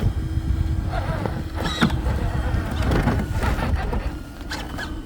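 Electric motor and drivetrain of a 1/6-scale Axial SCX6 Honcho RC rock crawler whining steadily at low throttle as it climbs a rock, with a few short knocks of the truck against the rock, over a low rumble.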